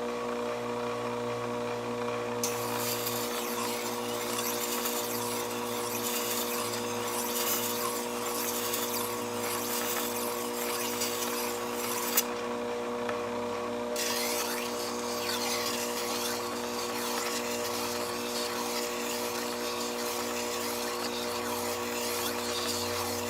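SDG-150H vertical water-cooled sharpening machine running with a steady motor hum. A loud hiss rides over it in two long stretches, starting about two seconds in and breaking off for about two seconds near the middle.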